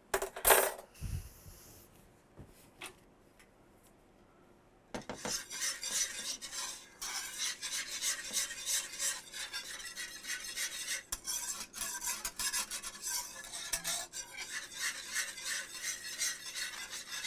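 A whisk scraping and rattling rapidly against a skillet as milk gravy is stirred while it thickens; it starts about five seconds in, after a single short clatter about half a second in.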